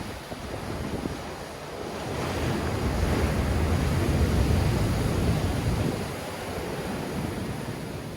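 Sea waves breaking in strong wind, with wind buffeting the microphone. The surf swells to a loud crash about two seconds in and eases off after about six seconds.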